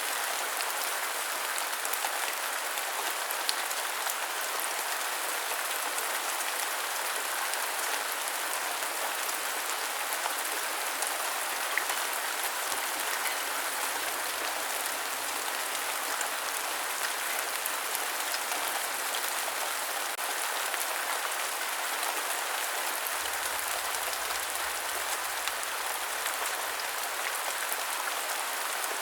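Steady rain, a dense, even patter of drops that keeps on without letup.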